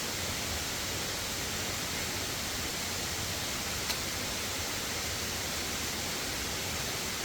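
Steady rushing of a waterfall, an even hiss-like roar of falling water, with one faint click about four seconds in.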